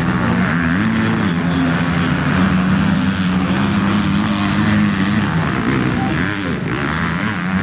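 Motocross bike engines revving on the track, the pitch rising and falling as the riders work the throttle.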